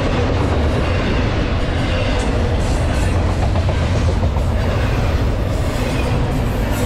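Double-stack intermodal freight train's well cars rolling past close by: a steady heavy rumble of steel wheels on rail, with scattered faint clicks.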